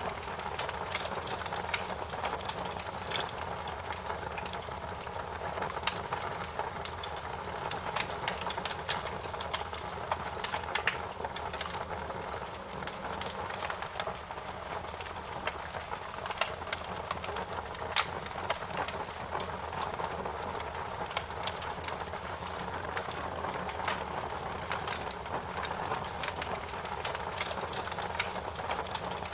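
Fire crackling steadily: a constant low rush with frequent sharp, irregular pops and snaps.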